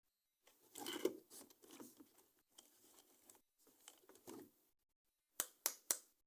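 Close-up handling of toy packaging: irregular rustling and crinkling of plastic and card, then three sharp clicks near the end.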